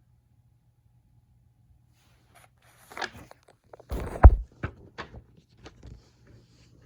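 Handling noises: a quiet start, then a run of short clicks and knocks about three seconds in, with one loud thump just after four seconds, as objects are picked up and set down.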